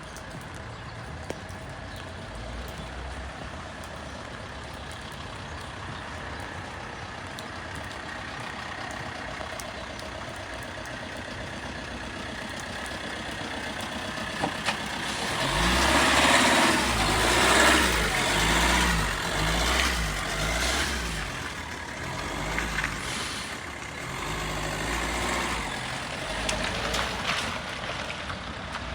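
Steady street noise in the rain, then about halfway in a heavy vehicle such as a truck or bus passes close: a low pulsing engine sound and a loud hiss of tyres on the wet road, loudest a couple of seconds after it arrives and then slowly fading with dips.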